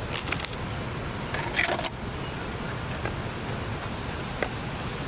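Rice, beef and peppers frying in a pan over a campfire: a steady sizzle with scattered crackles, and a brief louder rush of sizzle about a second and a half in.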